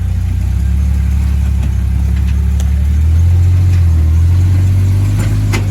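Off-road Jeep engine running at low speed, a steady low drone that grows a little louder about three seconds in, with a couple of faint knocks near the end.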